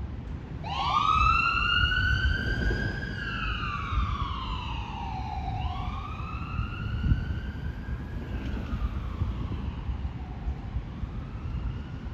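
Emergency vehicle siren wailing, its pitch sweeping slowly up and down about three times and growing fainter toward the end, over a steady low rumble. A short low thump about seven seconds in.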